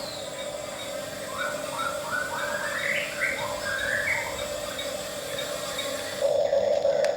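Electric drive motors and gearing of an RC model bulldozer whining steadily, with a run of short rising whines as the throttle is pushed in steps. The whine grows louder near the end.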